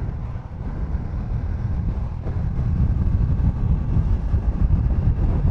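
Riding a motorcycle at speed: wind buffeting the microphone over a low rumble of engine and road noise, gradually getting louder.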